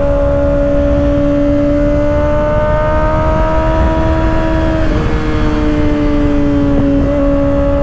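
2024 Kawasaki ZX-6R's 636 cc inline-four with an M4 aftermarket exhaust running hard at high revs under steady throttle, its pitch creeping up, with a sudden drop in pitch about five seconds in. Low wind rumble on the rider's microphone underneath.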